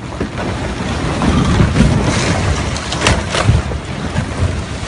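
Loud rushing roar of a violent storm, with a deep rumble and a couple of sharp knocks about three seconds in.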